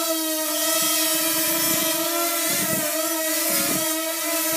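Parrot Swing mini drone's propellers whining steadily in flight, the pitch wavering slightly as it is steered, with a few short low pulses mixed in.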